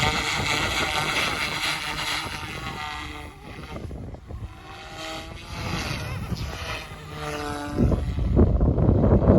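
OMP Hobby M2 Evo electric RC helicopter flying, its rotor whine gliding up and down in pitch through the middle. Wind rumbles on the microphone at the start and again near the end.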